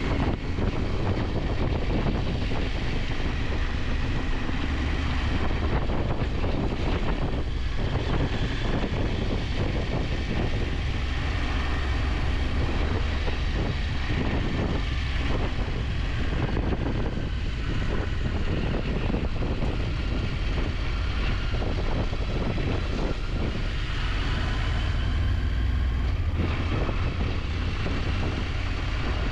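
KTM 890 Adventure's parallel-twin engine running under way, mixed with wind noise on the camera microphone. The engine note rises and falls with the throttle.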